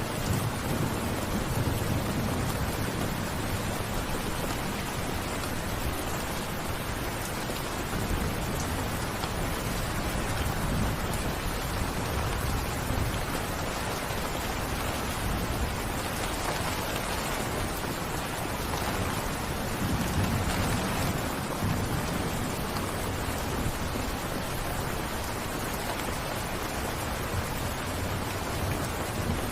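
Steady rain falling, a continuous even hiss, with low rumbling swells coming and going a few times.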